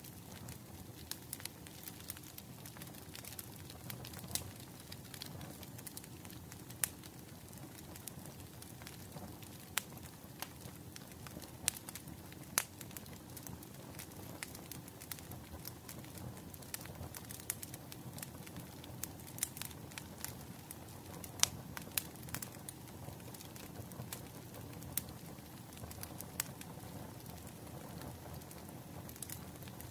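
Wood fire burning, with irregular sharp crackles and pops over a low steady rumble of flames.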